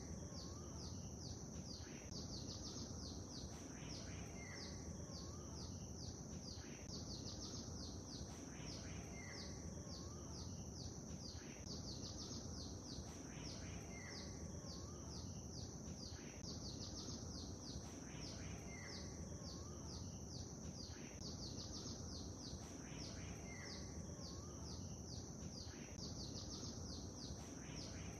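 Small birds chirping in rapid high strokes over a steady low wash of lake water. The same short stretch repeats about every three seconds as a seamless loop.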